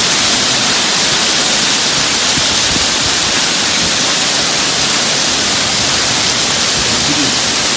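Rain pouring down steadily in a thunderstorm: a loud, even hiss.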